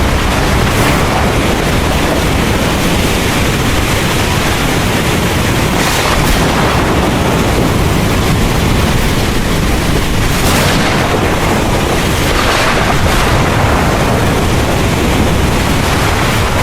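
Heavy rain pouring steadily under a continuous low thunder rumble, with a few brief surges of louder hiss along the way.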